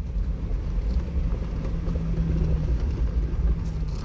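Jeep Wrangler engine running with a steady low rumble at slow trail speed, with a few faint clicks over it.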